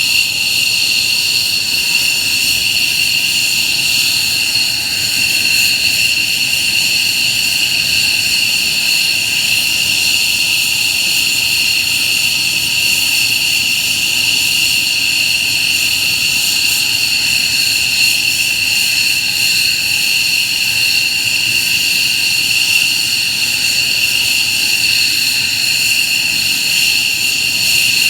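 F-15J fighters' F100 turbofan engines running on the ground. They make a loud, steady, high-pitched whine over a jet rush, with no change in pitch.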